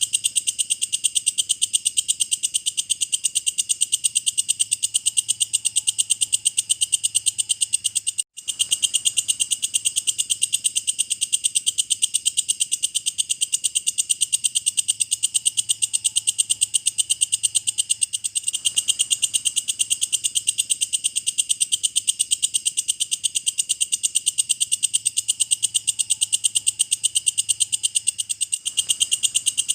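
Walang kecek insect calling in a continuous, very fast high-pitched trill, with a brief break about eight seconds in.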